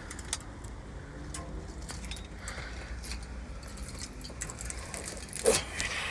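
Light metallic clicks and rattles from tools and parts being handled while working on a heat pump, with one louder knock near the end.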